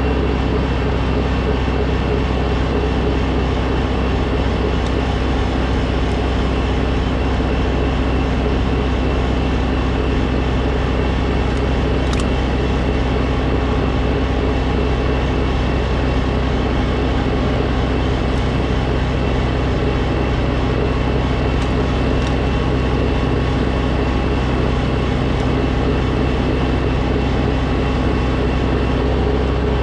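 An engine running steadily at a constant speed, with no change in pitch or loudness.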